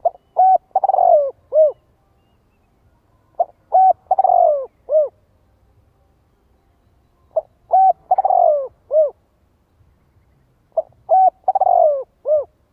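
Spotted dove singing its cooing song: four phrases about three to four seconds apart, each a few short coos around a longer, falling middle note.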